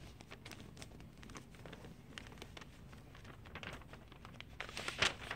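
A sheet of paper being handled and folded: faint rustles and small crisp clicks as the paper is creased, with a louder rustle near the end.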